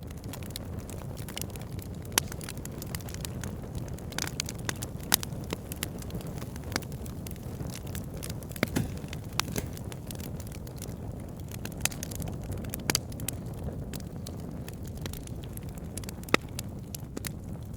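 Wood fire burning: a steady low rumble of flames with irregular sharp crackles and pops from the burning logs, a few single snaps standing out louder than the rest.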